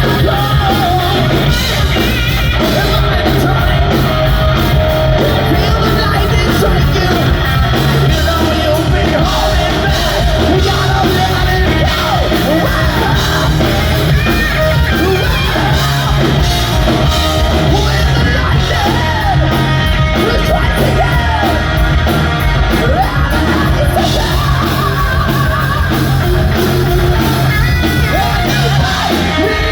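Live rock band playing loudly, with a singer.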